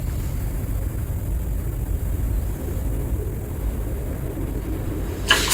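Steady low rumbling noise, with a short loud sound near the end.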